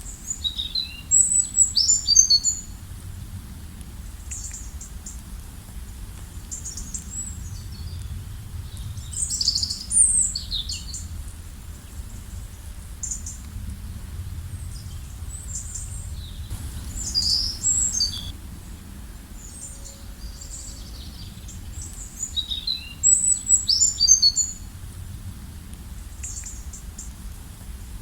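Songbirds chirping in four bursts of quick, high-pitched notes, spaced several seconds apart, over a steady low background rumble.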